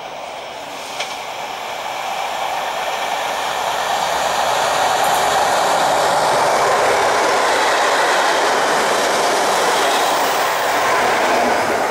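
HST test train led by a Class 43 diesel power car approaching and running through a station at speed. The noise of the diesel power car and the wheels on the rails swells steadily over about six seconds, then stays loud as the coaches go past.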